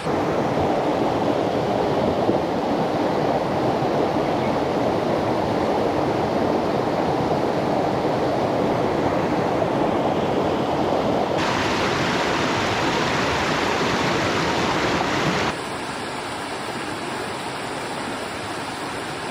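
Rushing water of a mountain stream, a steady, loud rush. It turns abruptly brighter and hissier about eleven seconds in, then drops to a quieter rush about four seconds later.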